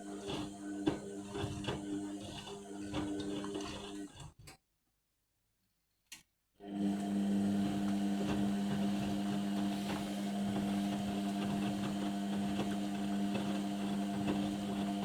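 Indesit washing machine in its main wash, the motor turning the drum of wet bedding with a steady hum, clicks and rattles. The sound cuts out completely for about two seconds a little over four seconds in, then the motor hum comes back stronger and steadier.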